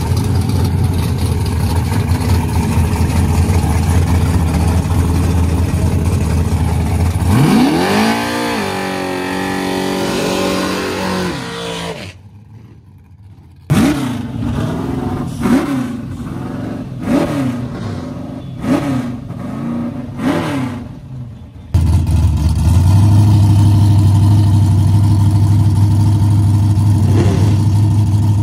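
Fox-body Mustang drag car's engine running loud and steady, then revving up sharply about seven seconds in. The sound cuts off abruptly near twelve seconds. After that comes a string of about six quick throttle blips, then the engine settles back into a loud steady run.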